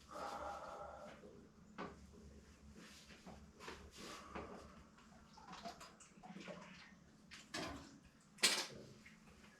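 Scattered light clinks and knocks of tools and metal parts being handled while the oil filter is worked off. A short, sharp scrape comes near the end.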